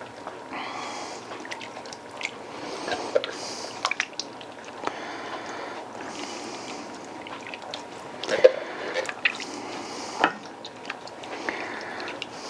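Canned whole tomatoes being crushed by hand into a pot of chili: irregular wet squelches, drips and small plops.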